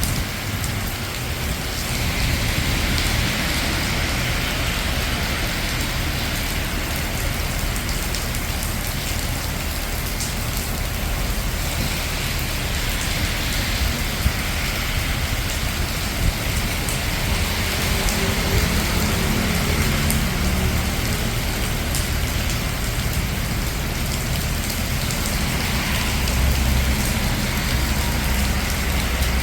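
Steady rain falling on a city street, a continuous hiss with a low traffic rumble beneath it. Several times the hiss swells and fades, as of cars passing on the wet road, and a vehicle engine hums for a few seconds past the middle.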